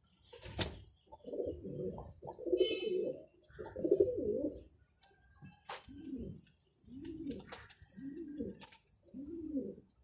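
Domestic pigeons cooing in repeated low, rolling phrases, with a few sharp clicks in between.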